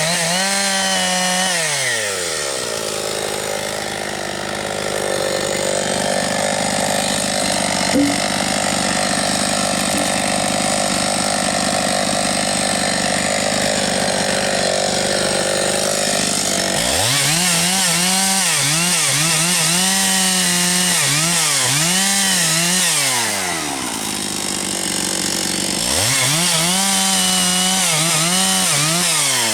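Husqvarna 272XP two-stroke chainsaw bucking poplar and spruce logs. The engine pulls down under load in a long cut, then runs high and wavering out of the wood at about 17 s, dips into a shorter cut, and revs freely again near the end.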